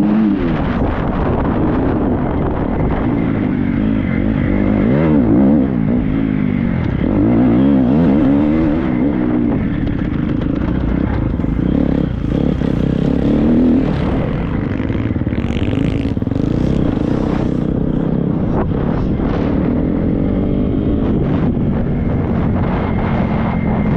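Triumph 250 motocross bike's single-cylinder four-stroke engine working hard off-road, its pitch rising and falling again and again as the throttle is opened and rolled off. Scattered knocks and clatters come in about halfway through.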